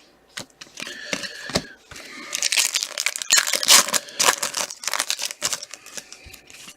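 Trading card pack being opened and its cards handled: a run of crinkling wrapper rustles and small clicks of cards sliding against each other, busiest in the middle.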